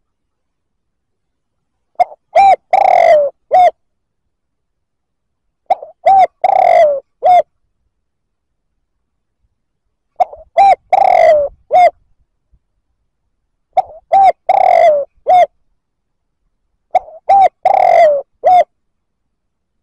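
Spotted dove cooing. The same phrase repeats five times, about every three and a half to four seconds: a few short coos, then one longer coo that falls in pitch, then a last short coo, with silence between phrases.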